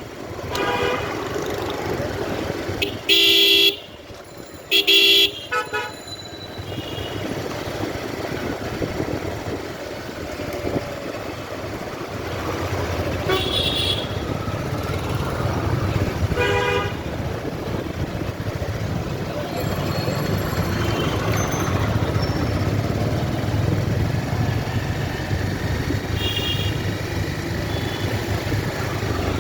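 Street traffic with vehicle engines running and horns honking: two loud horn blasts about three and five seconds in, then a few shorter toots later on.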